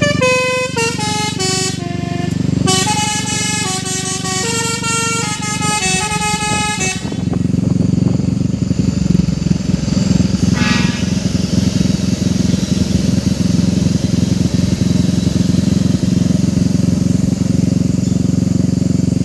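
A truck's basuri musical horn playing a tune of stepped notes for about seven seconds, then cutting off. After that a heavy vehicle engine runs loudly, with one short horn note about ten seconds in.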